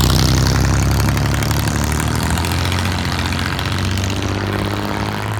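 Classic car's engine rumbling as the car drives out past at low speed, loudest at the start and slowly fading as it moves away.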